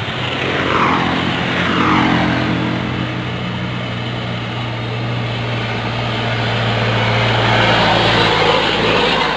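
Large truck engine running with a steady low drone, and a vehicle passing with its pitch falling about a second in.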